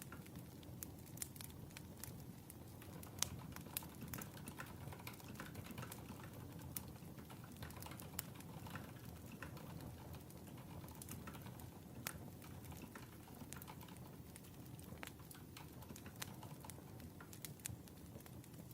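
Wood fire crackling: irregular sharp pops and snaps over a soft, steady low rumble of burning.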